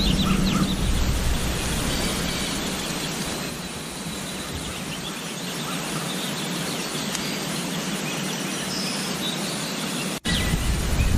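Outdoor ambience: birds chirping now and then over a steady hiss, with wind rumbling on the microphone at the start and again after a brief cut about ten seconds in.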